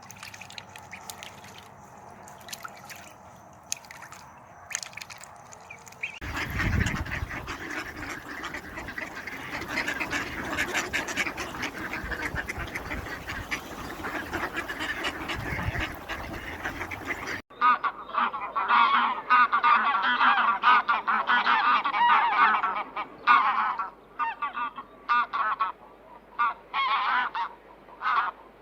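A flock of geese honking, many loud overlapping calls in quick succession through the second half. Before that comes a busier stretch of mixed flock noise with a low rumble underneath, and the opening seconds are faint.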